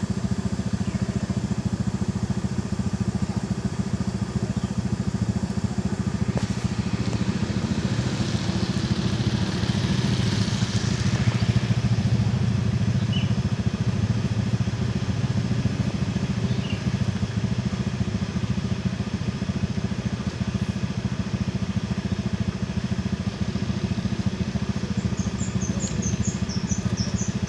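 An engine or motor running steadily with an even low hum. A few short high chirps come near the end.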